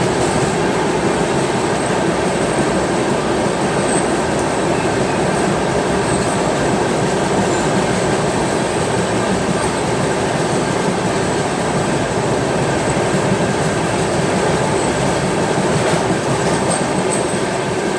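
Amarkantak Express passenger train running through a tunnel, heard from an open coach doorway. Its wheels make a loud, steady rumble on the rails, which the tunnel walls close alongside echo back.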